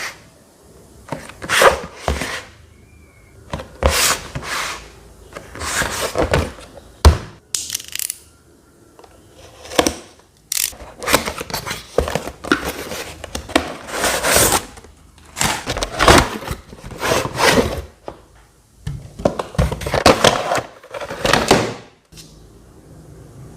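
Handling noises from a rechargeable table fan and its packaging: an irregular run of short rustling, scraping and knocking sounds, one every second or two. Near the end they stop.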